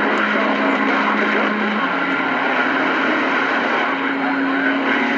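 CB radio receiver putting out loud, steady static and hiss from a weak long-distance skip signal, with a low steady tone in it that steps up in pitch about two seconds in; the band conditions are changing and the signal is fading in and out.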